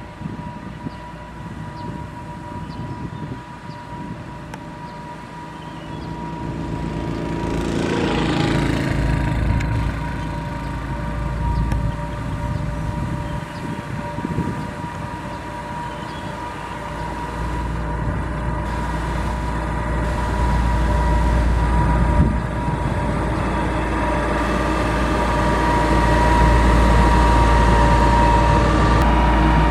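Heavy construction machine running: a steady engine drone with a high whine over a low rumble. It grows louder over the second half.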